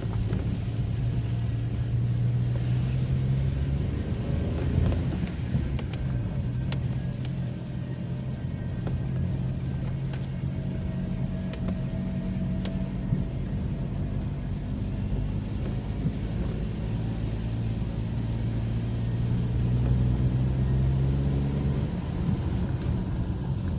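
Car engine running with road noise during a drive, the engine note dipping and rising with speed.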